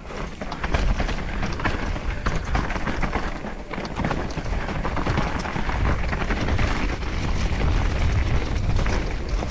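29er mountain bike descending a slippery dirt trail: wind rumble on the rider's microphone, with tyres rolling and the bike rattling over rough ground in many small knocks.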